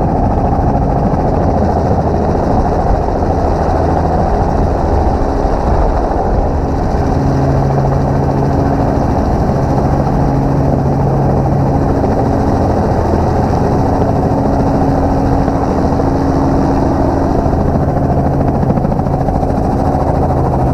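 Helicopter running with a loud, steady rotor and engine drone with a low hum, and no gunfire.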